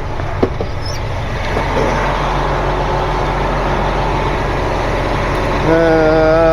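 Heavy tow truck's diesel engine running with the PTO engaged to drive the hydraulics, with a single click about half a second in. A steady pitched whine joins near the end.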